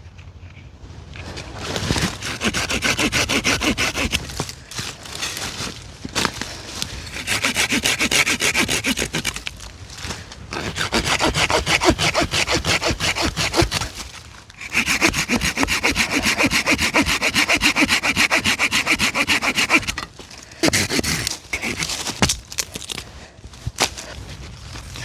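Hand saw cutting dead fir branches, in about five bouts of quick back-and-forth strokes with short pauses between them.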